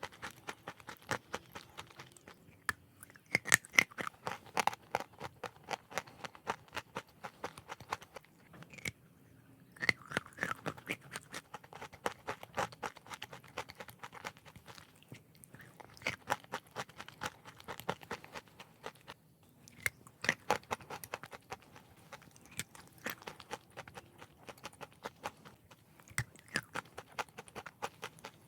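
A person chewing and crunching chalk in big bites: bursts of rapid, crisp crunches lasting a few seconds each, with short pauses between bites.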